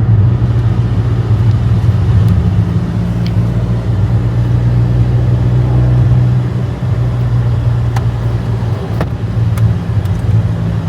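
Car cabin noise while driving: a steady low drone of engine and road, with a few faint clicks in the second half.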